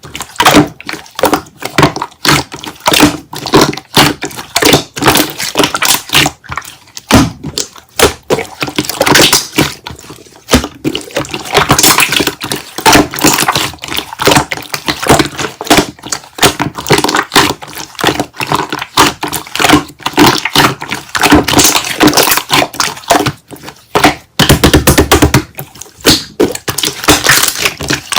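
Slime being squeezed and poked by hand, a dense, irregular run of clicks and pops.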